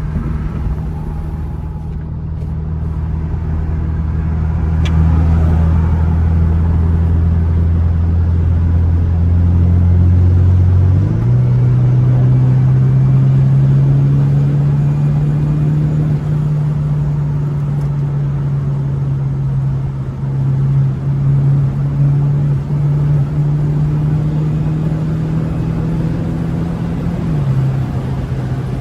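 Interior sound of a BMW 428i's turbocharged four-cylinder engine through an aFe cold-air intake, running at steady revs while driving. About eleven seconds in the engine note jumps to a higher pitch, and it steps down again near the end.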